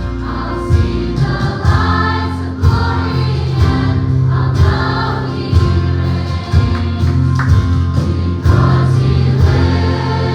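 A gospel choir singing with a live band: steady bass notes and a regular drum beat under the voices.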